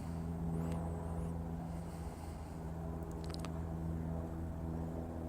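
An engine idling, a steady low hum.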